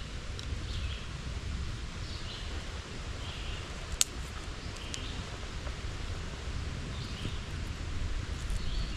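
Outdoor woodland ambience: a bird chirping over and over, short high calls about once a second, over a low steady rumble, with one sharp snap about four seconds in.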